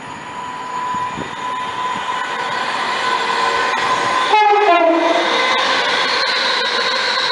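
Virgin Trains Class 390 Pendolino electric train approaching at speed and passing through the station. About halfway through it sounds its two-tone horn, a brief high note dropping to a lower one, and the rush of the passing train grows louder.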